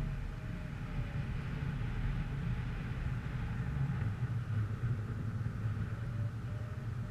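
Steady low rumble of a vehicle running, with a faint whine that shifts slightly in pitch.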